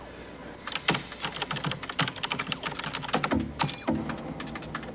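Typing on a keyboard: a quick, irregular run of keystroke clicks starting about a second in and stopping near the end.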